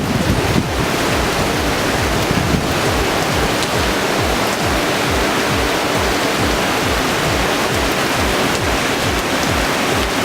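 Typhoon wind and heavy rain making a loud, steady rushing noise. Background music with a steady low beat plays underneath.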